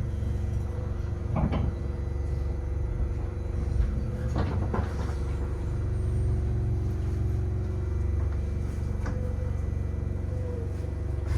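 Inside a Keio 7000-series electric train: a steady low rumble and an even equipment hum, with a few brief knocks about a second and a half and four and a half seconds in.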